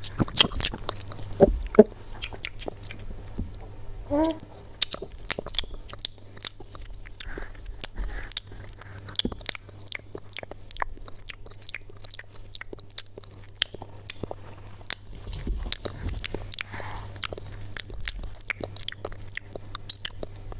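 Crunchy food being bitten and chewed: many sharp, irregular crunches, with a brief rising squeak about four seconds in.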